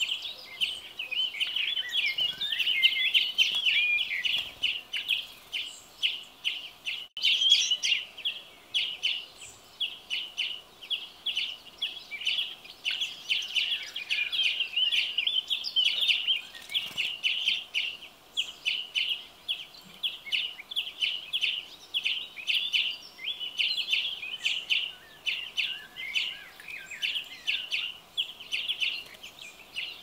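Small songbirds chirping continuously: a dense, rapid run of short high chirps with no pause.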